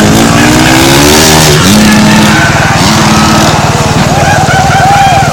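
Motorcycle engines revving loud, the pitch climbing over the first second or so, then several quick throttle blips about four seconds in.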